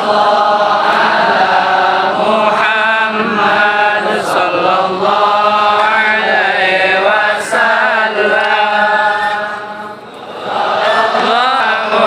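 Voices chanting salawat in unison, long held melodic lines that break off briefly about ten seconds in and then start again.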